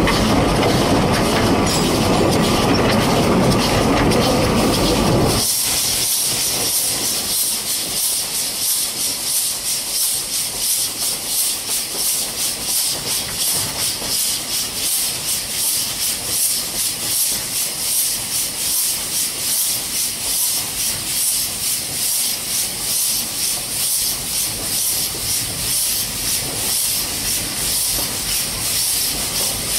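Narrow-gauge Beyer-Garratt steam locomotive G42 under way, heard from beside the cab. A loud low rumble fills the first five seconds or so. After that comes a steady hiss of steam with a rhythmic beat of exhaust and wheels on the rails.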